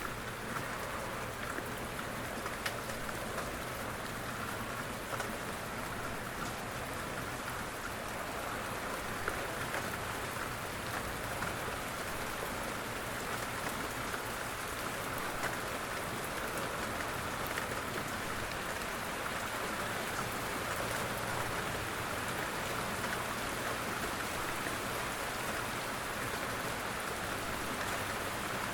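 Steady rain falling on a surface, a dense even patter with single drops ticking through it.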